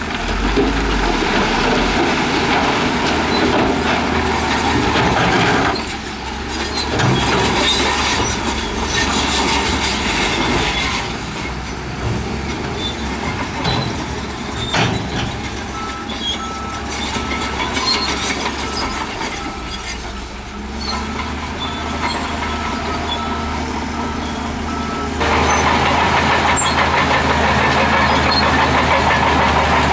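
Heavy diesel earthmoving machinery running and working. A reversing alarm beeps steadily in the second half, and the engine sound changes abruptly twice.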